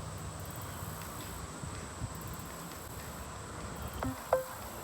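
Outdoor ambience: a steady low rumble with a faint high steady tone, and a short click followed by a brief falling blip near the end.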